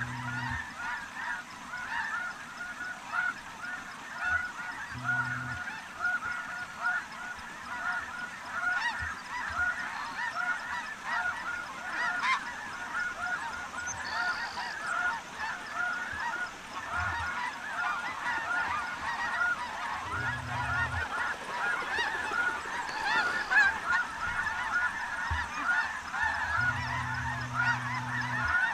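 A huge flock of snow geese calling all together as it sets in, a dense, unbroken chorus of high, short honks.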